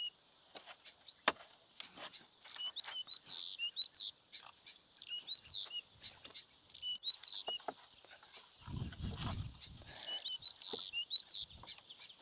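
A bird calling over and over, a short high chirping phrase repeated every second or two. Scattered clicks and knocks sound alongside it, and there is a brief low rumble about nine seconds in.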